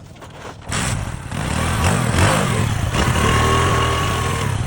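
Motorcycle engine running loud, coming in suddenly about a second in and easing off near the end.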